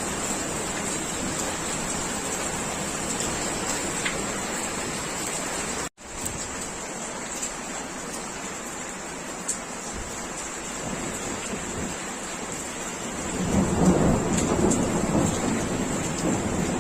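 Steady rain shower with distant thunder rumbling in from about three-quarters of the way through. The sound cuts out for an instant about a third of the way in.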